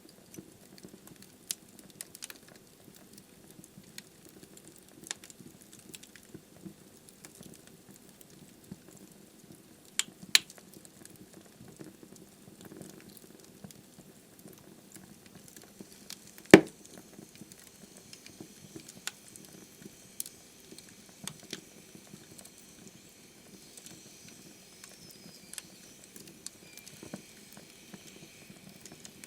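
Wood logs burning in a fireplace: a soft, steady flame noise with scattered crackles and pops, the loudest a single sharp pop a little past halfway. A faint hiss joins in the second half.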